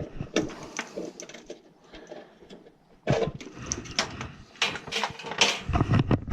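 Irregular clicks, knocks and rattles of hard parts being handled during furnace repair work. They are sparse at first, then come thick and louder from about halfway through.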